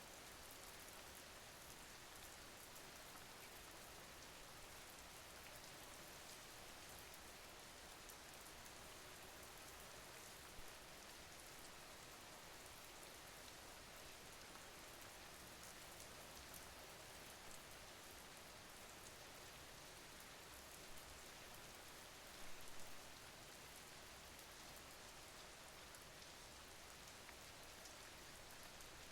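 Faint, steady rain: an even hiss of falling rain, with a few brief slightly louder taps along the way.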